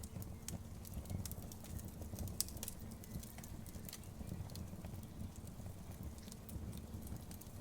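Wood bonfire crackling: irregular sharp snaps and pops, several a second, over a low steady rumble.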